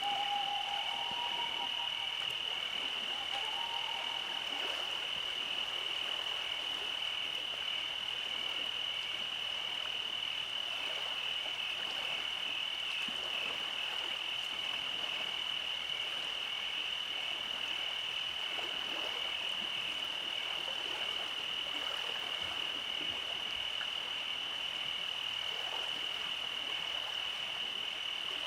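Night chorus of calling frogs: a steady high-pitched trilling that never lets up, with a few short lower calls in the first few seconds.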